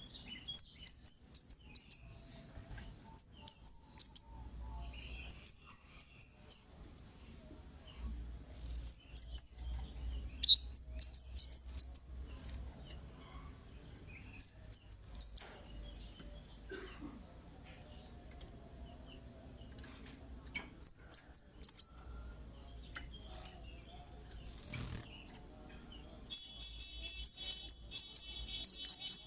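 Cit kemade songbird singing in short bouts of rapid, very high chirps, each bout a quick string of downward-flicking notes, separated by pauses of one to several seconds; the last bout, near the end, is the longest.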